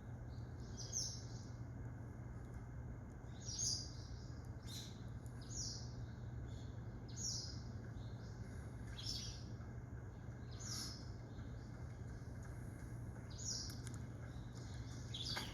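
Common kingfisher's thin, high, sharp calls, repeated every second or two, over a steady low hum.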